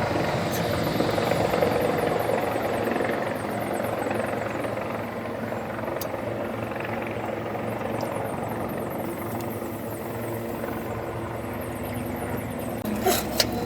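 Mitsubishi Fuso Super Great's 6R20 inline-six diesel engine running steadily at idle after an oil change, a little louder in the first few seconds, with a few sharp clicks near the end.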